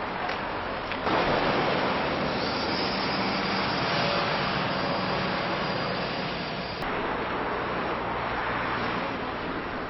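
A steady, loud rumbling noise with faint low humming tones in it. It gets louder about a second in and changes abruptly near seven seconds.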